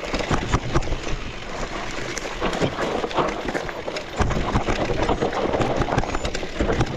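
Mountain bike riding down a rough trail: tyres running over dirt and rocks with a steady rush of noise, the bike rattling with many small, irregular knocks.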